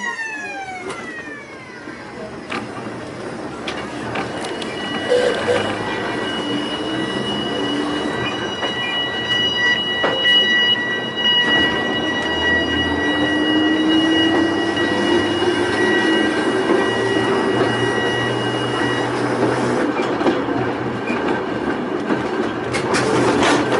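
Volk's Electric Railway car running along the track: a rumbling ride with a steady high squeal from the wheels. About halfway through, the electric motor's whine rises slowly in pitch as the car picks up speed, and a few sharp clicks come near the end.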